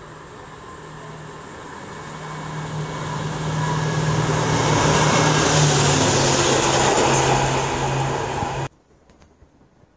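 Locomotive-hauled train passing close by: a steady engine hum with rushing wheel and rail noise swells as it approaches and is loudest as it goes past. The sound cuts off abruptly near the end.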